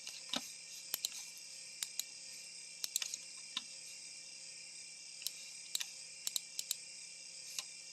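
Irregular sharp clicks, about fifteen spread over several seconds, from someone working a laptop computer, over a steady high-pitched hiss.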